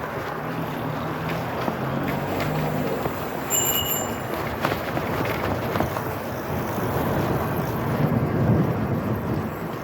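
Wind rushing over the microphone and rolling noise while riding e-bikes, a steady noisy rush. A short high ring sounds about three and a half seconds in.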